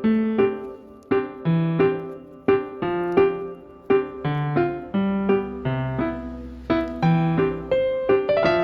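Background piano music: a gentle melody of plucked-sounding notes and chords, a new one roughly every half second.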